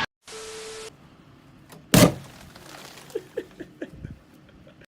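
A single loud bang about two seconds in, followed by several lighter knocks and clatters. A short steady beep sounds just after the start.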